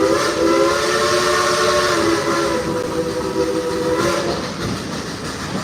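Steam whistle of Baldwin-built 2-8-2 Mikado locomotive No. 192 blowing one long chord that fades out about four seconds in, over the steady rumble and clatter of the train.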